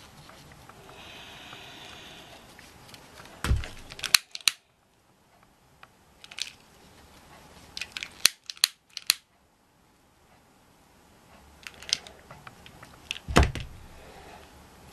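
Scattered sharp clicks and snips of craft materials being handled, with two dull thumps, one about three and a half seconds in and one near the end.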